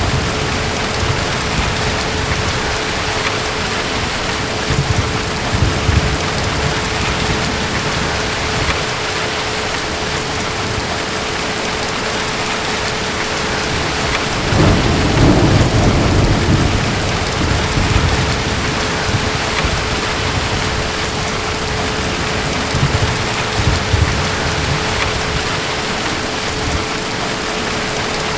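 Steady heavy rain with rumbles of distant thunder rolling in and out, the strongest swelling about halfway through.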